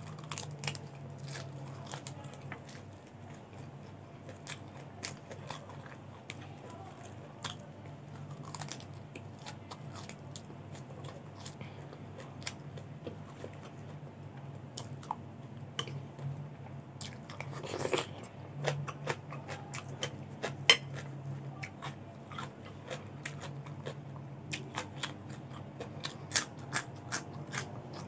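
Close-miked chewing and crunching of raw vegetables and rice: a stream of small crisp crunches and wet mouth clicks, with one louder crunch about two-thirds through. A faint steady low hum runs underneath.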